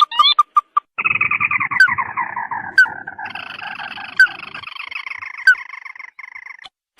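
Crake calls played as a bird-trapping lure: a few quick rising notes at the start, then a long chattering trill that falls slowly in pitch for about six seconds, with a short sharp note cutting in roughly every second and a half.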